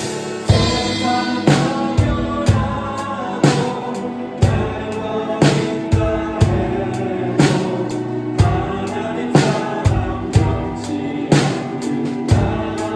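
Drum kit played along to a recorded contemporary Christian worship song with singing, heavy hits landing about once a second with lighter strokes between.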